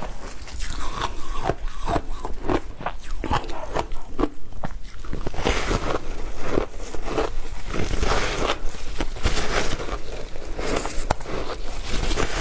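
Mouth biting and chewing frozen matcha ice, a rapid string of crunches one after another.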